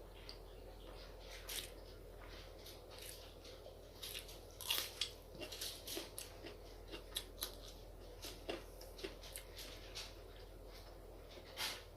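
Close-miked eating sounds: a person chewing and biting rice with chicken curry, saag and fried eggplant, giving irregular wet mouth clicks and smacks, thickest about four to five seconds in.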